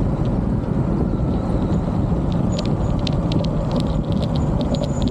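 Motorbike on the move: steady engine and road noise mixed with wind rush on the microphone. From about halfway through, a quick run of sharp ticks sounds over it.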